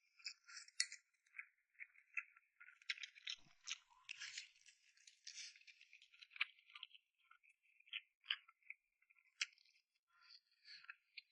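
Close-miked eating sounds: a dense run of crisp clicks and crackles of chewing and biting, with a few sharper clinks.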